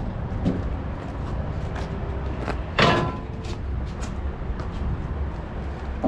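A single sharp metal clunk with a brief ring about three seconds in, over a steady low rumble, with a few fainter knocks around it.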